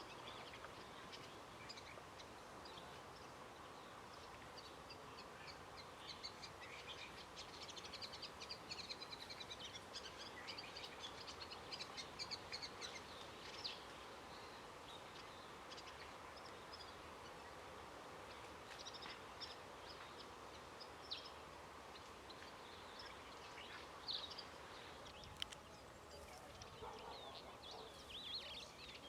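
Faint birdsong: several small birds chirping and trilling in quick high notes, thickest in the first half and sparser later, over a steady background hum.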